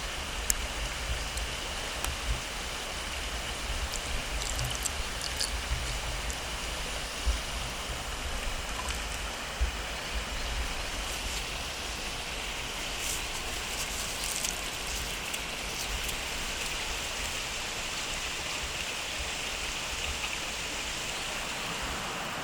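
Food cooking over a campfire: a steady sizzling hiss with scattered sharp crackles and pops.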